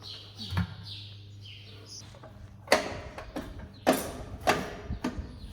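Birds chirping with short falling calls over a steady low hum, then four sharp knocks about half a second to a second apart, each ringing briefly; the first knock is the loudest.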